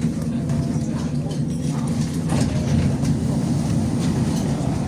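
Electric tram running between stops, heard from inside the car: a steady low hum of the motors and the running gear.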